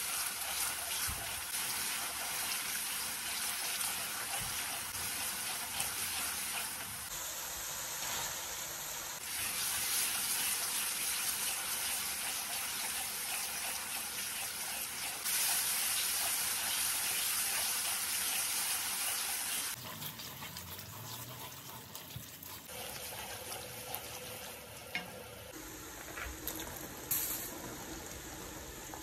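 Onion-tomato masala and chicken pieces sizzling in a stainless steel pan, stirred with a wooden spoon; the hiss jumps in level abruptly several times.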